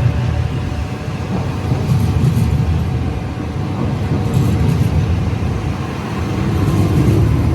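Electric regional train running, with a steady low rumble and a faint motor whine.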